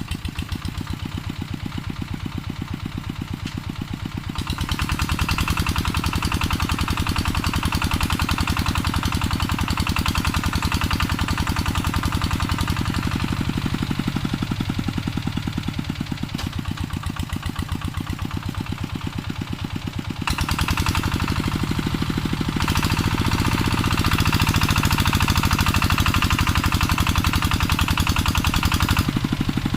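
Walking tractor engine running with a fast, even pulse. It gets louder with added clatter about four and a half seconds in, eases off briefly around twenty seconds, then is loud again.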